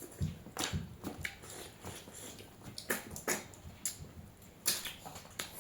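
Close-up eating sounds: irregular chewing smacks and clicks of a mouth at work, several a second.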